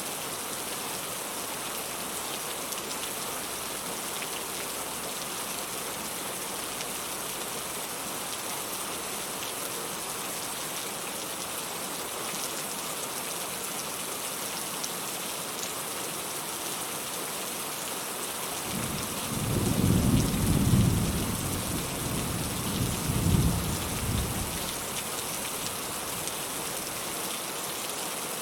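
Steady rain falling, with a rumble of thunder about two-thirds of the way through that swells twice and fades after several seconds.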